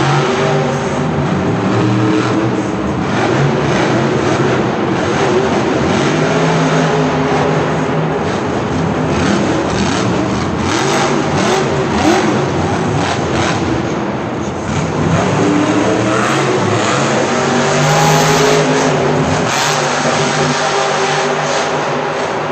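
Monster truck engine running loudly and revving, its pitch rising and falling repeatedly.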